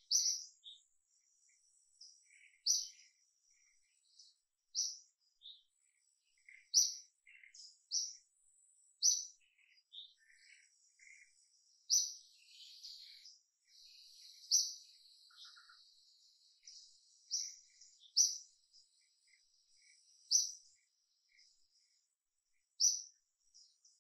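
Wild birds chirping, short sharp high calls repeated every second or two, over a thin steady high-pitched insect drone that thickens into a buzz in the middle.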